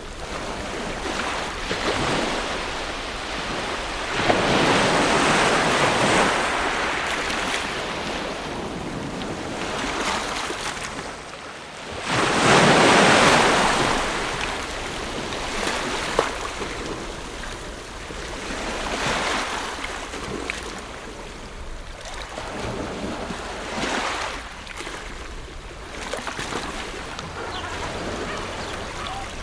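Ocean waves breaking and washing on a shore, coming in slow swells every few seconds, the two largest about four and twelve seconds in.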